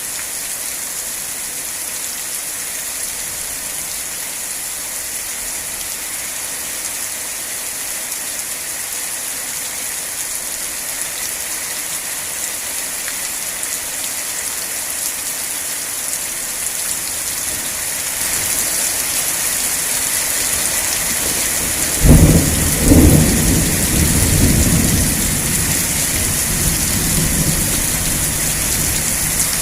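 Steady rain hissing, growing heavier about two-thirds of the way through. Then comes a sudden sharp crack of thunder with a second jolt right after it, and a low rumble that rolls on and fades over a few seconds.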